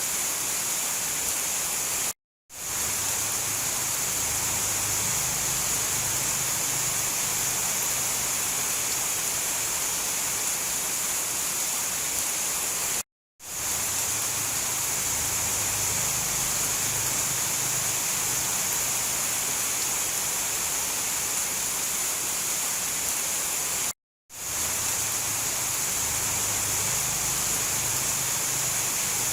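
Steady heavy rain, a dense even hiss, with a faint low rumble under it. It cuts out to silence for a split second three times, about eleven seconds apart, and fades back in each time, as at the seams of a looped recording.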